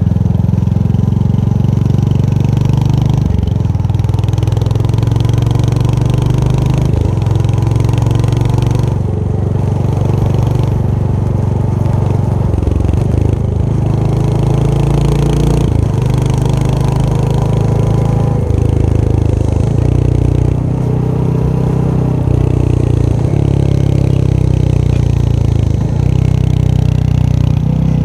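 Royal Enfield Hunter 350's single-cylinder engine and exhaust running on the move. The engine note steps up and down several times as the throttle and gears change.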